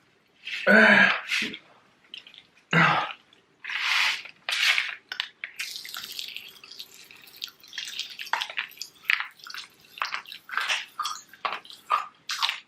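Pop Rocks popping candy crackling: many small, irregular pops and crackles in the second half, after a couple of short vocal sounds near the start.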